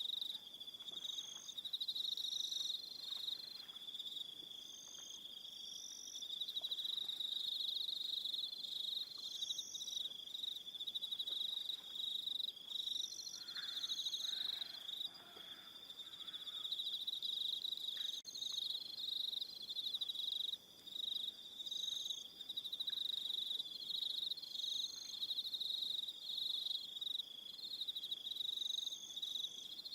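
Evening chorus of crickets: a steady high trilling throughout, with short, higher chirps repeating every second or two over it and a few faint lower calls about halfway through.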